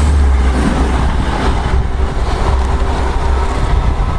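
Passenger train running past, with a steady low rumble and rolling noise.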